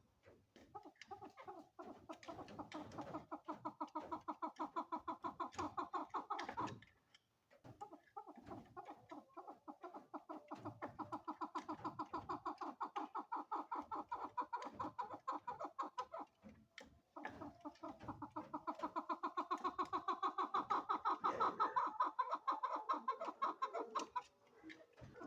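Female chukar partridge calling: long runs of rapid, repeated clucking notes that swell in loudness, broken by short pauses about seven and seventeen seconds in.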